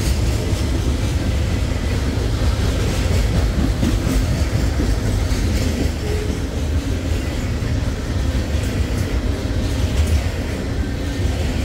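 Loaded CSX coal train rolling past: a loud, steady, heavy low rumble of wheels on rail with scattered clicks.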